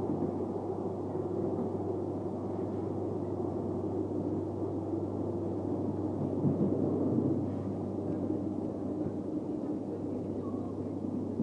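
Passenger train running at speed, heard from inside the carriage: a steady low rumble over a steady low hum, briefly louder about six to seven seconds in.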